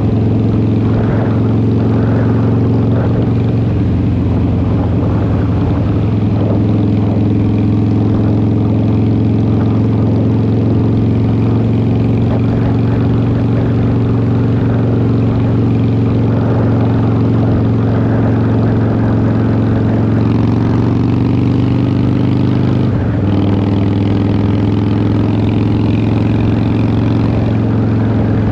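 2003 Harley-Davidson Fat Boy's Twin Cam 88 V-twin running at a steady speed through Vance & Hines exhaust pipes. The engine note holds level, with a brief dip and a step in pitch near the end.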